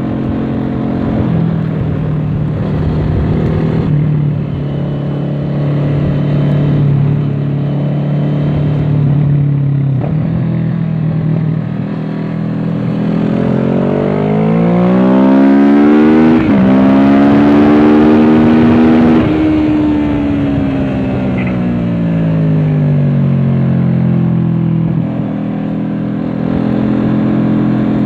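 Kawasaki Z650's parallel-twin engine through an aftermarket Dominator exhaust, heard from on board the bike. It runs at a steady pitch at first, then revs up hard about halfway through with a quick shift, and winds back down as the bike slows.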